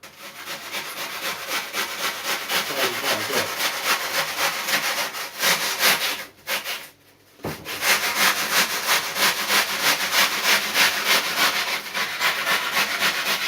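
Hand sanding of cured poured foam in a surfboard repair: quick back-and-forth rubbing strokes, about four a second, with a short pause about halfway through.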